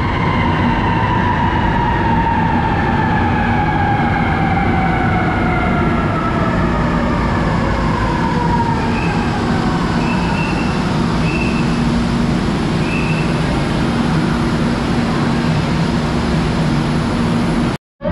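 Manila MRT Line 3 train running with a steady rumble. Its motor whine falls slowly in pitch over the first several seconds, and four short high beeps sound midway.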